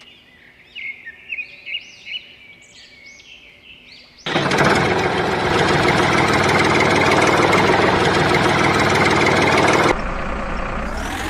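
Birds chirping in a run of short whistles for about four seconds. Then a loud engine noise starts abruptly and runs steadily for about six seconds, and drops to a quieter running engine near the end.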